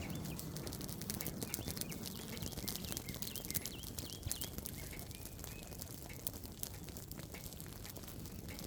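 Dry pasture grass burning in a controlled burn, with a steady run of irregular crackles and pops over a low rushing noise. A bird chirps repeatedly in the first half.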